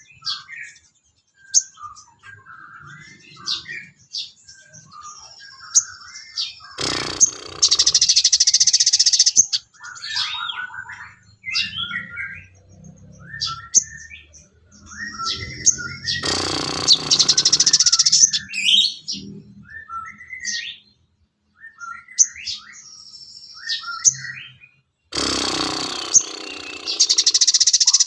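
Songbirds chirping and whistling in short varied phrases, with three long, loud, rapid trills coming about every nine seconds.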